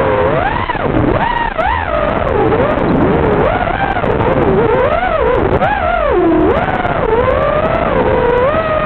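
FPV racing quadcopter's electric motors and propellers whining, the pitch swinging up and down constantly as the throttle is worked through the course.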